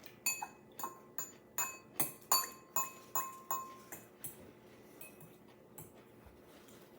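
A metal eating utensil clinking against a bowl about a dozen times, roughly three strikes a second, with the dish ringing briefly after each strike. It thins out to a couple of faint taps after about four seconds.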